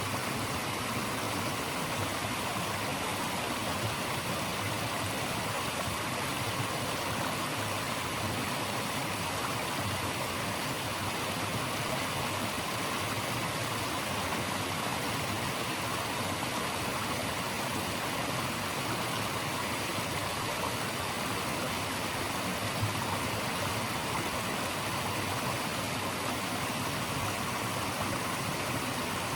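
Steady rush of flowing water, an even unbroken hiss spread from low to high pitches.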